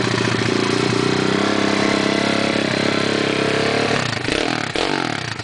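Kawasaki KLX110 pit bike with a 143cc big bore kit and Yoshimura exhaust, its single-cylinder four-stroke engine running loud at high, steady revs; about four seconds in, the revs drop and waver.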